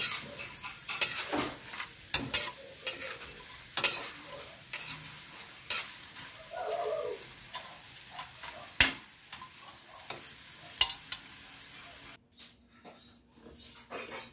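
Potato slices sizzling in hot oil in a steel wok, with sharp clicks and scrapes from a metal spatula and tongs against the pan as they are turned. The sizzle stops abruptly near the end.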